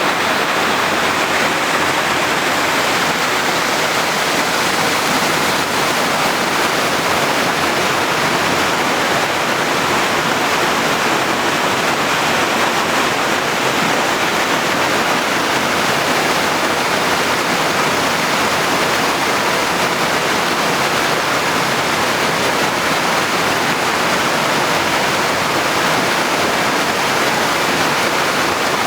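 Waterfall: a steady, loud rush of falling water crashing into its pool, with no change throughout.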